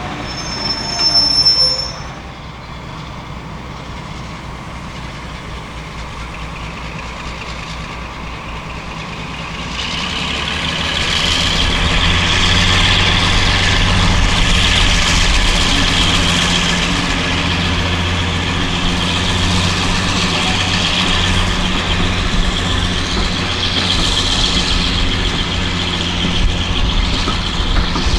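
A train running on the rails, growing louder about ten seconds in and staying loud, with a steady low engine note and high wheel squeal. A brief shrill sound about a second in.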